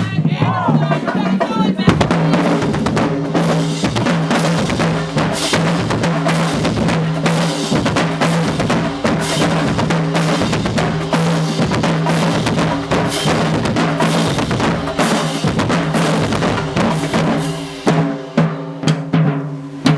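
Marching band drumline playing a fast cadence on snare and bass drums, with a low steady tone underneath; the drumming thins out near the end.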